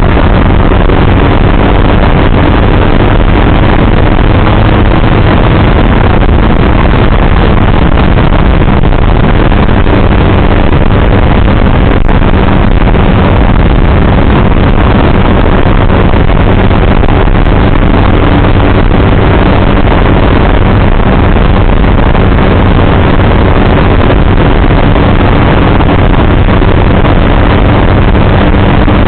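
Motorcycle engine running steadily at an even cruising speed, under a heavy rush of wind and road noise, with one brief click about twelve seconds in.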